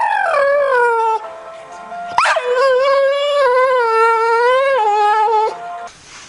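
A dog howling in two long, wavering calls: the first slides down and ends about a second in, and the second starts sharply about two seconds in and wavers on until near the end.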